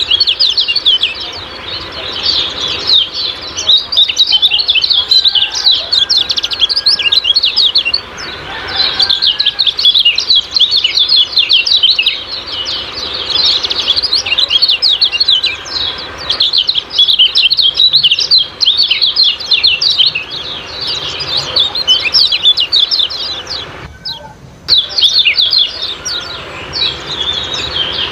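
Kecial kuning singing its 'ciak ciak' song: a dense, rapid run of high chirps that slide in pitch, with a short break a few seconds before the end.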